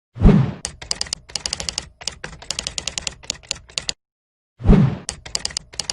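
A heavy thump followed by a run of rapid, sharp mechanical clicks, like fast typing, repeated twice.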